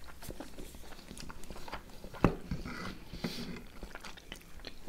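Close-up chewing and wet mouth sounds of people eating soft vareniki dumplings with yogurt, with a sharp click a little over two seconds in.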